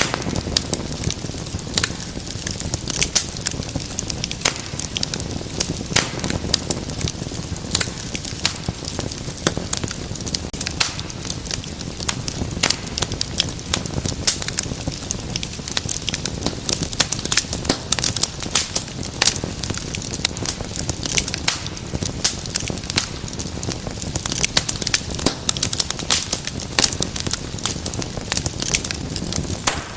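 Wood fire crackling steadily: many sharp pops and snaps over a low rumble of burning flames.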